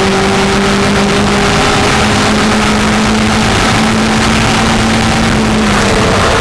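Racing car engine running hard at high revs, its note holding steady and slowly climbing, then changing near the end.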